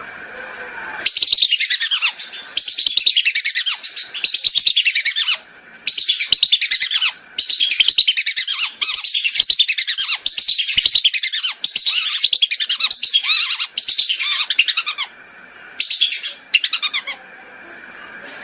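Whistling ducks (belibis) calling: rapid runs of high, falling whistled notes in phrases of a second or two, separated by short pauses, starting about a second in and stopping a little before the end.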